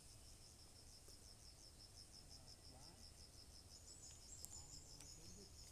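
Faint insect chirping: a steady high-pitched pulse repeating about five times a second, with a second, higher trill joining about four seconds in.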